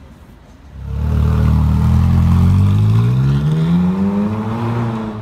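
Ferrari 458 Speciale's V8 accelerating hard, starting suddenly about a second in, its note climbing steadily in pitch for about four seconds.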